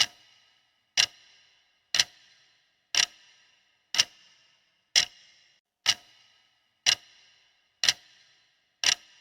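Countdown clock ticking sound effect timing a quiz answer: ten sharp ticks, one every second, each with a short metallic ring.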